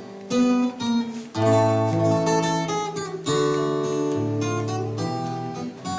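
Acoustic guitar strumming and picking chords: an instrumental passage between sung lines of a bard song, with a fresh chord struck every second or two.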